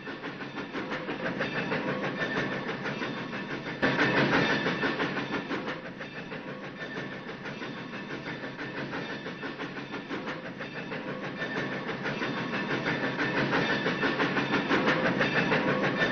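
Train running along rails with a rapid, even, rhythmic clatter of wheels, the cartoon's train sound effect. It grows louder about four seconds in, eases, then builds again toward the end.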